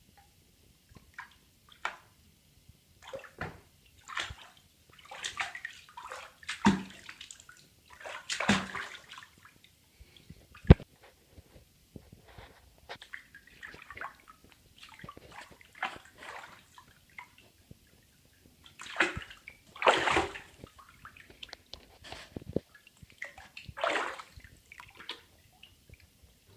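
A Savannah cat at play: irregular bursts of scuffling noise, some loud and some faint, with a single sharp knock about eleven seconds in.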